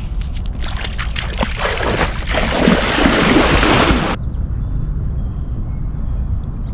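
A body splashing into pond water, with a loud rush of splashing and sloshing that cuts off suddenly about four seconds in.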